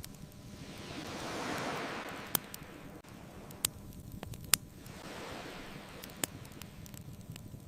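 Ocean waves washing in and falling back twice over a steady low rumble, with a few sharp pops and crackles from a burning wood fire, one of them the loudest thing heard.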